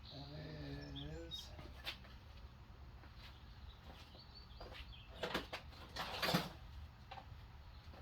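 A few short knocks and clatters of hand tools and parts being handled on a mower, the loudest about five and six seconds in, with a short wavering hum or whine about a second long near the start.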